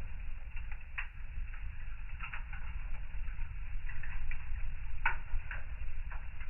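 Fire burning in a fireplace, crackling with scattered sharp pops over a steady low rumble; the loudest pops come about a second in and about five seconds in.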